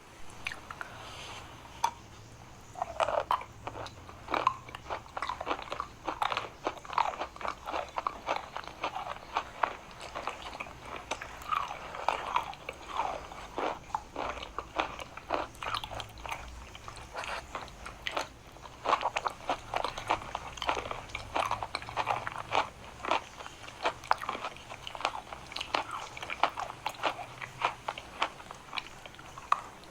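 Biting and chewing hard, dry chalk close to the microphone: a dense, irregular run of sharp crunches and crackles, several a second.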